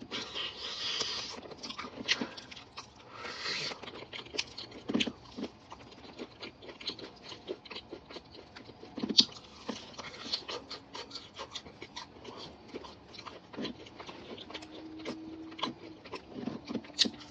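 Close-miked eating: chewing and mouth smacking, with many small wet clicks and crunches. A couple of short breathy rushes near the start.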